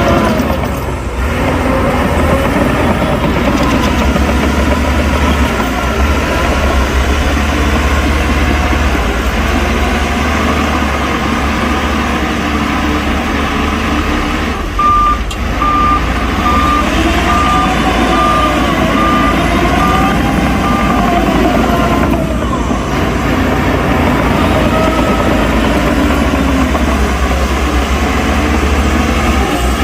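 Heavy diesel earthmoving machinery running with a deep, steady engine rumble. About halfway through, a reversing alarm beeps evenly, roughly once a second, for several seconds while an engine note rises and falls.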